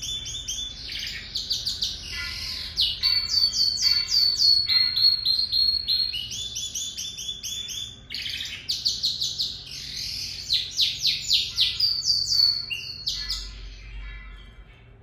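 Lizard canary singing a long song of fast trills and rolls, each phrase a rapid run of repeated notes, the song tailing off near the end.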